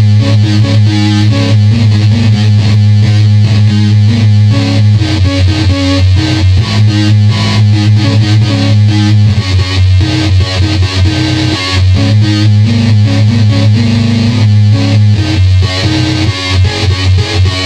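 Circuit-bent electronic keyboard making glitchy, distorted tones: a loud buzzing low drone that breaks off and comes back several times, with rapid stuttering blips above it.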